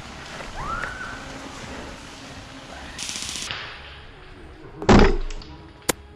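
A single loud thunk of an airsoft gun shot about five seconds in, followed a second later by a sharp click.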